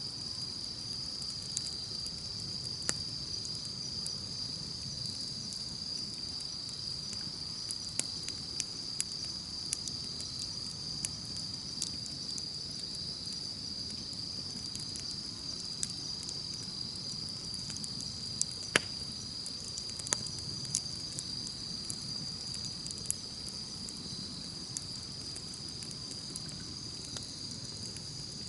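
Campfire crackling, with irregular sharp pops, one louder than the rest about two-thirds of the way through, over a steady high trilling of insects.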